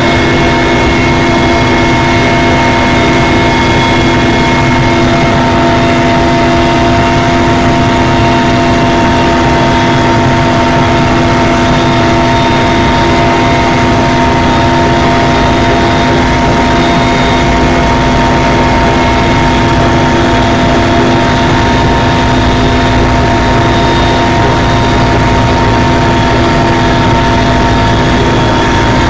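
Helicopter in steady flight: a loud, unbroken drone of engine and rotor with several steady tones held over it.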